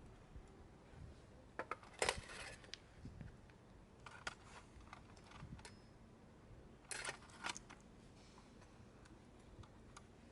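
Light clatter of small hard objects: three brief clusters of sharp clicks, the loudest about two seconds in, over a quiet background.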